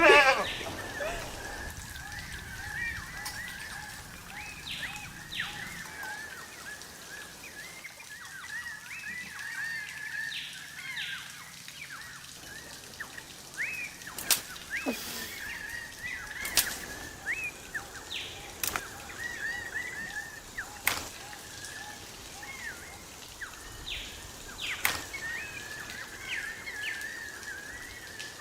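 Many small birds chirping continuously in short, quick calls, with a few sharp clicks or taps now and then.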